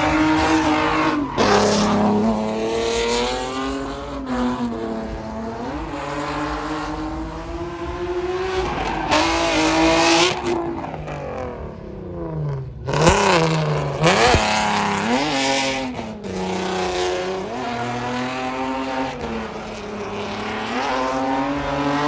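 Vehicle engine revving hard at high revs, rising and falling in pitch, with tire squeal as from a burnout. The revs drop briefly about halfway through, then climb sharply again.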